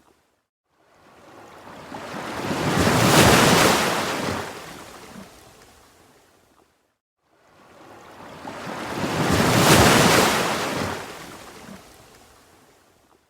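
Ocean surf: two waves in turn, each swelling up to a loud wash and then fading away, with a brief moment of complete silence between them.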